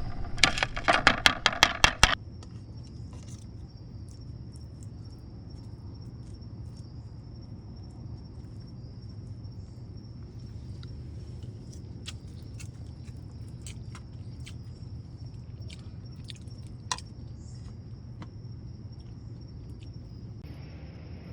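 Background music with rhythmic clinking cuts off about two seconds in. After that, a steady high-pitched insect chorus drones over a low hum, with a few faint scattered clicks and one sharper tick.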